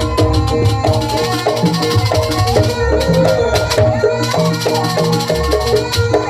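Jaranan music from a Javanese jaranan ensemble: drums beating under a pitched melody line, with a fast, steady jingling rattle on top.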